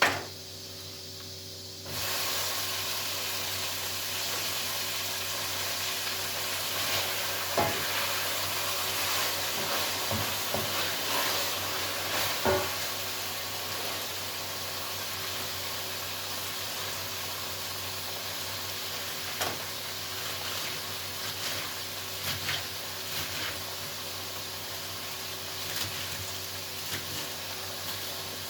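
A sharp click, then about two seconds in food starts sizzling in a hot pan with oil, a steady frying hiss with scattered pops and crackles.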